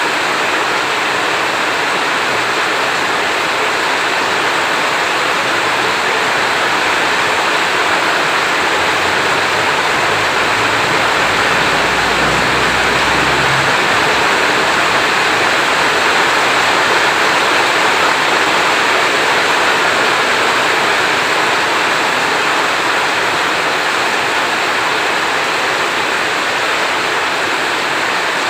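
Heavy rain falling in a steady, dense hiss, with a low rumble of distant thunder around the middle.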